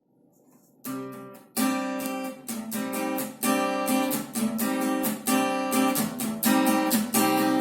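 Acoustic guitar strumming an introduction in a steady rhythm, about two strums a second, starting just under a second in.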